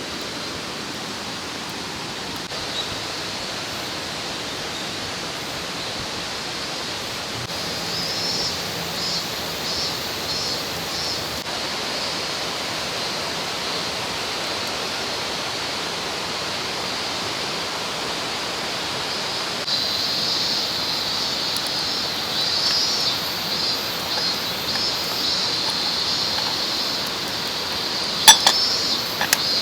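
Mountain stream rushing steadily. A high, pulsing chirr comes in about eight seconds in and is stronger from about twenty seconds, and a couple of sharp knocks sound near the end.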